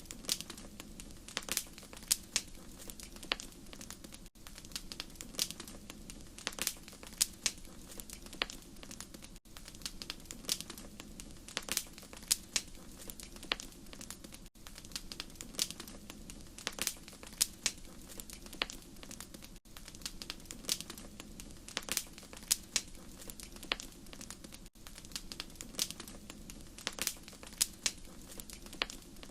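Wood fire crackling: irregular sharp pops and snaps over a steady low rumble, with a brief drop-out about every five seconds.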